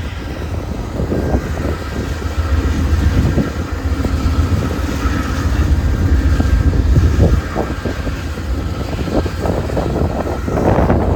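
VIA Rail passenger train running slowly into the station, a steady low rumble, with snowstorm wind gusting on the microphone.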